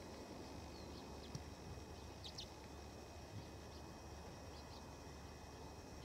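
Faint, short high chirps from small songbirds, a few scattered through, the clearest a quick pair about two and a half seconds in, over a steady low background rumble.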